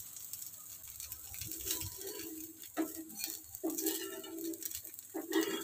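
A dosa sizzling faintly on a hot iron tawa, with a steel spatula scraping and tapping under it as it is lifted off the pan.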